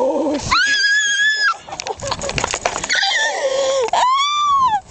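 Two long, high-pitched cries about three seconds apart, the first held level for about a second, the second rising and falling, with scuffling clicks and a shorter falling cry between them.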